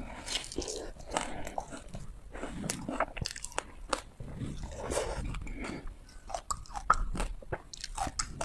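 Ice being bitten and chewed: repeated sharp crunches and crackles of hard ice breaking between the teeth, close to the microphone.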